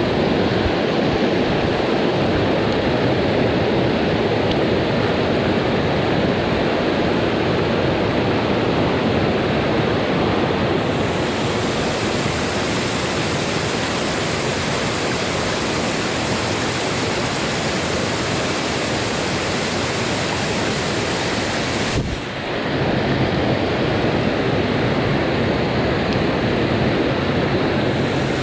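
Rushing water of a mountain headwater stream, a steady loud wash with no break except a brief dip about three quarters of the way through.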